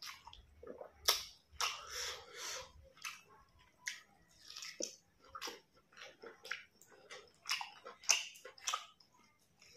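Close-miked chewing of a hand-fed mouthful of rice and pork curry with vegetables: irregular wet crunches, lip smacks and clicks. The loudest crunches come about a second in and again near the end.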